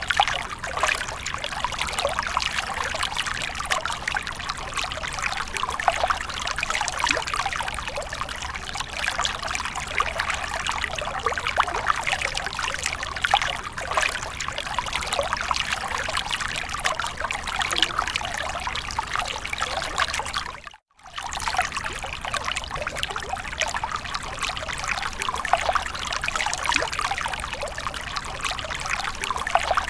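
Water splashing and trickling continuously with many small splashes. About two-thirds of the way through it cuts out completely for a moment and then resumes.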